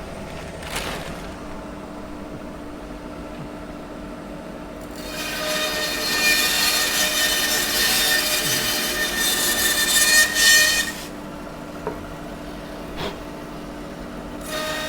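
A power saw's blade cuts through a dry, split wood offcut for about six seconds, starting about five seconds in. The saw's steady hum runs before and after the cut.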